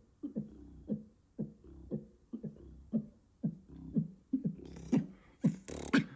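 Beatboxer making a club dance beat with his voice, about two bass kicks a second, muffled at first as if heard from outside the club through a wall. A little before the end the beat opens up with bright hi-hat and snare hisses, as if walking in through the club door.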